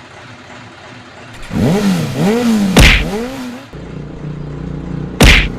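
A vehicle engine revving up and down a few times, then running steadily. Two loud bangs come about two and a half seconds apart, the first in the middle of the revving.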